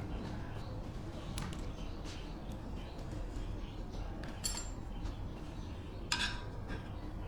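Metal parts clinking and knocking against one another during hand work, with small clicks and two louder ringing clinks, about four and a half and six seconds in, over a steady low rumble.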